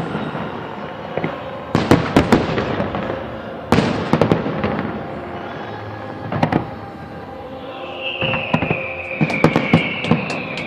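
Fireworks salute: sharp shell bursts come in clusters over a steady crackle. From about eight seconds in, a long high whistle slides slowly down in pitch.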